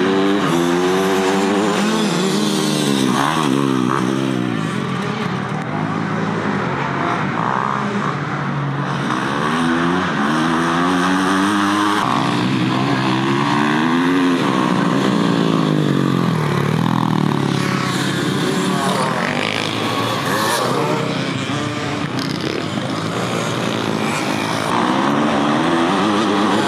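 Several motocross bikes' engines racing on the track, their pitches overlapping and rising and falling as the riders work the throttle through the course. There is an abrupt cut about halfway through.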